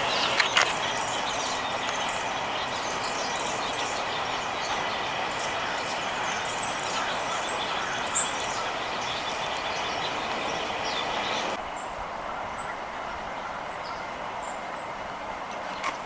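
Steady outdoor background noise with a faint high hum, with short high bird chirps over it; the noise drops suddenly about twelve seconds in.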